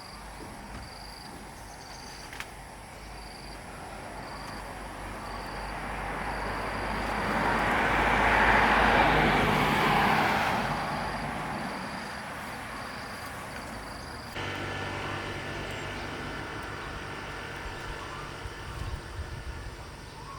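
A vehicle passing by: a rushing noise that swells to a peak about nine seconds in, then fades away. Faint, regular high chirps repeat about twice a second, and about fourteen seconds in the sound cuts to a steady low hum.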